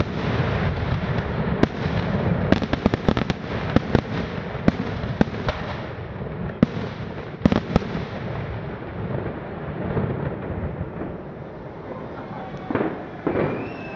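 Fireworks going off in rapid clusters of sharp cracks and bangs over a low rumble, thinning out in the second half.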